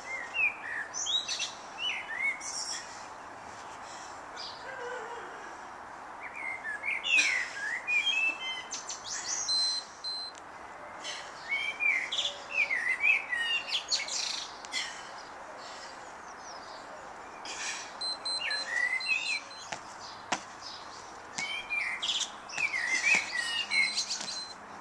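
A songbird singing in bouts of quick chirps and whistled glides, each a few seconds long with pauses between, over a steady background hiss.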